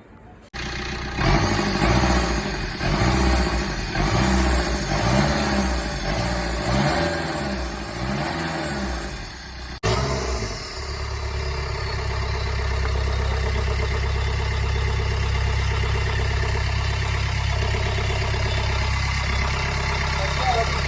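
Car engine starting and being revved in about six blips, then, after a sudden break about ten seconds in, running at a steady, even idle. The engine has just been repaired for a sound problem.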